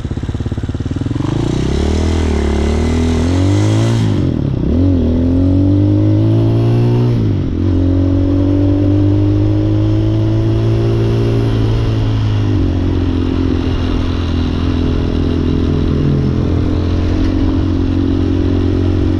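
Hawk 250 dirt bike's engine pulling away, revving up and dropping in pitch at gear changes about four, five and seven seconds in, then running at a steady cruising speed and easing off slightly twice later on.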